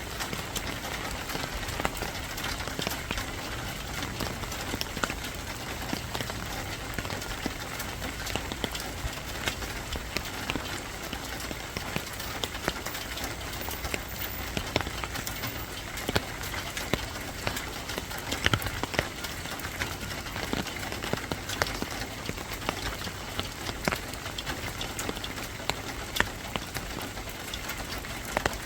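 Steady rain falling, with many sharp drops pattering on a hard surface close by.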